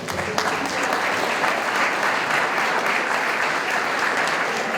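Audience clapping steadily in a hall, starting at once and holding even throughout.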